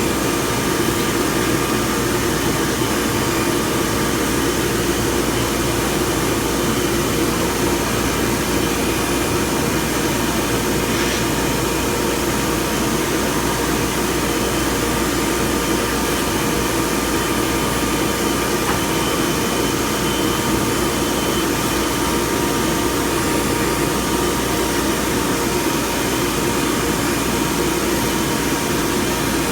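Weeke BP12 CNC router running: a steady mechanical hum and whine with several held tones, level throughout.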